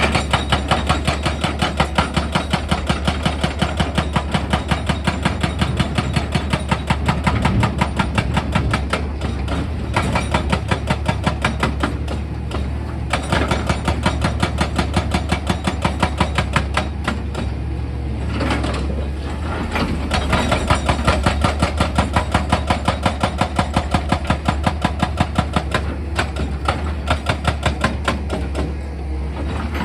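Excavator engine humming under fast, even percussive hammering of rock, about four to five blows a second, typical of an excavator-mounted rock drill or hydraulic breaker at work. The blows ease off briefly a few times.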